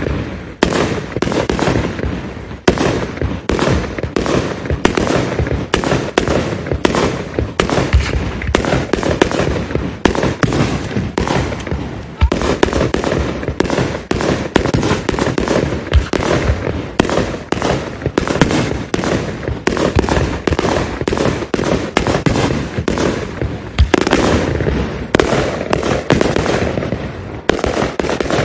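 Fireworks display: aerial shells bursting in a dense barrage, several bangs a second over a continuous rumble.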